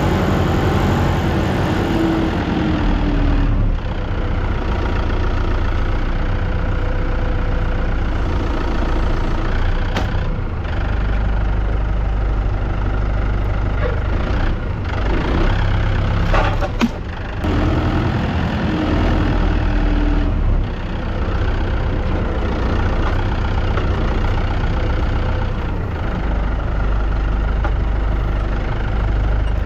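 Tractor engine running steadily at idle, with a few short knocks partway through.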